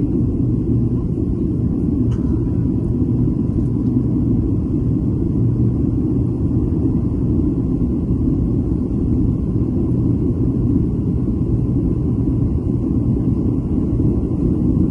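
Airliner cabin noise: a steady low rumble of engines and airflow, with a faint steady whine above it.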